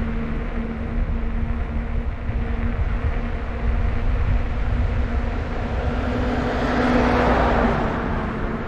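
Riding noise from a bicycle on the road: a low rumble with a steady hum running under it. About six seconds in, a rushing noise swells up and fades again near the end.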